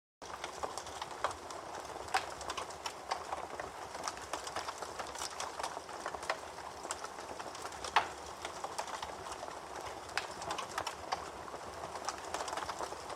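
Campfire crackling: a steady hiss of burning wood with frequent irregular pops and snaps, starting abruptly just after the beginning, with one louder pop about eight seconds in.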